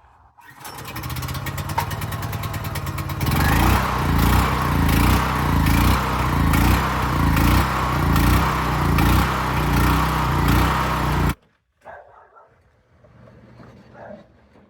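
A Harbor Freight portable generator's small gasoline engine starts on choke about half a second in and runs. About three seconds in it gets louder, with an even pulse roughly every 0.7 s. The sound cuts off suddenly near eleven seconds.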